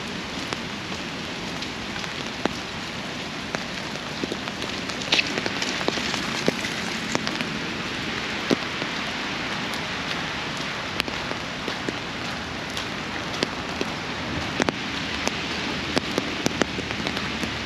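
Steady rain falling, with frequent irregular sharp taps of drops striking the umbrella held over the microphone.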